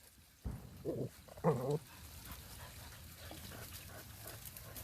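A dog gives two short barks about a second in, the second louder. Then comes faint, steady scratching and rustling.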